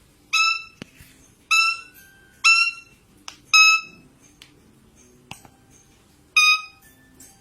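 A parrot calling: five short, loud, high-pitched whistled notes, four in quick succession about a second apart and one more after a pause near the end.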